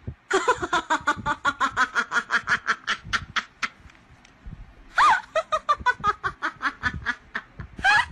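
Hearty laughter: a long run of quick ha-ha pulses, about six a second, trailing off, then a louder drawn-out gasp or cry about five seconds in and another burst of rapid laughing.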